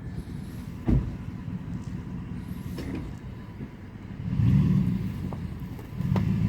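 2005 Dodge Dakota pickup's 4.7-litre V8 engine running, with a sharp knock about a second in and the engine note swelling louder twice in the second half.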